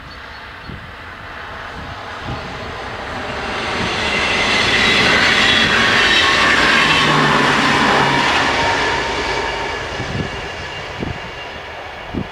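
A train passes through a level crossing, its rumble swelling to a peak about halfway and then fading, with the crossing's warning bells ringing steadily. A few sharp wheel knocks sound near the end.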